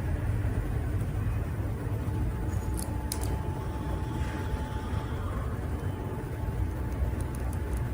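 Steady low rumble of workshop background noise, with a couple of light clicks about three seconds in, as small brake caliper parts are handled.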